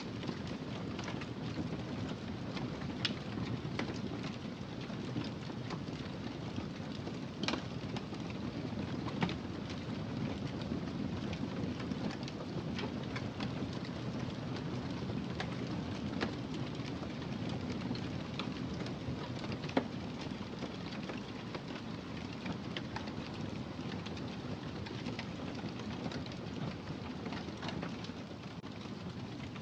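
Wood fire burning in a fireplace: a steady low rush of flames with scattered crackles and occasional sharp pops, the loudest about seven and twenty seconds in.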